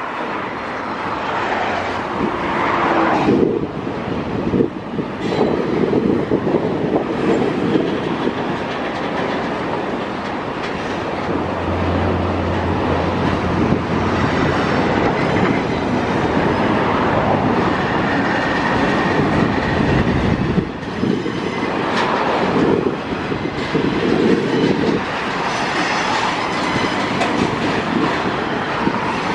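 Canadian Pacific intermodal freight train's loaded container well cars rolling past, a continuous rumble of steel wheels on rail with clickety-clack and knocks over the rail joints.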